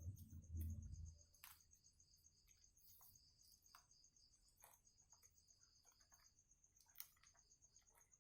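Night insects in a rice field trilling faintly and steadily, a high, fast-pulsing chirp with a second pulsing call beneath it. Scattered faint clicks and a brief low rumble in the first second.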